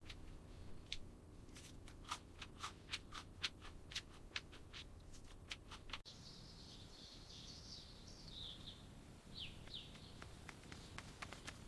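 Faint bird chirping ambience: quick sharp chirps, several a second, in the first half, then a thin high twittering with a couple of falling chirps.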